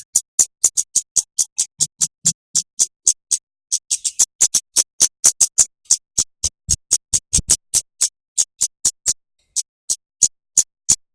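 Bird-song tutoring recording: a rapid, regular series of short, sharp, high-pitched chips at about three to four a second, with a brief break near the end. It is the kind of tight 'tembakan' note series used to tutor white-rumped shamas and oriental magpie-robins.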